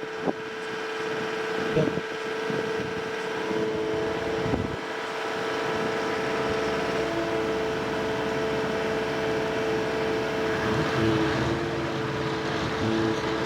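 Heavy road-recycling machinery running steadily, its engine and drive giving a constant whine over a rumble, with a few short knocks in the first few seconds.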